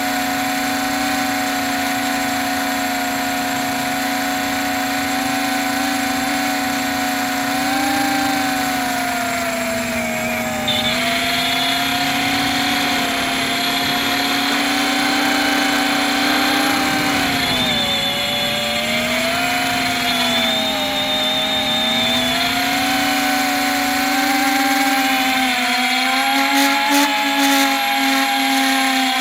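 Small HBx quadcopter's electric motors and propellers whining in flight, several pitches wavering up and down as the motors speed up and slow down, with a few short ticks near the end. It is flying roughly on a bad motor and a loose arm.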